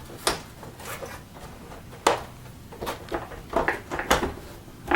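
Hard plastic vacuum-cleaner housing parts knocking and clicking as they are handled and pressed together, a series of short separate knocks, with a quick cluster of them near the end.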